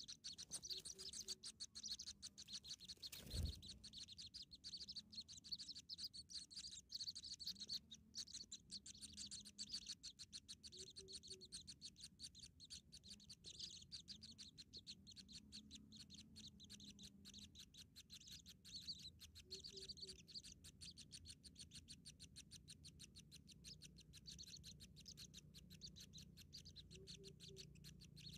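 Faint, rapid, high-pitched bird chirping that keeps on without a break. A low two-note call sounds about every nine seconds, and a single sharp knock comes a little over three seconds in.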